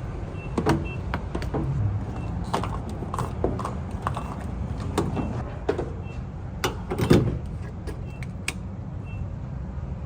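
A vehicle's steady low rumble with scattered sharp knocks and clicks, the loudest about seven seconds in, and faint short high beeps now and then.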